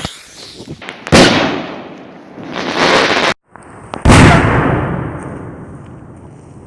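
Bursts of a 3-inch (75 mm) green-to-time-rain aerial firework shell: a loud bang about a second in, then after a cut another loud burst about four seconds in with a long fading tail of crackle.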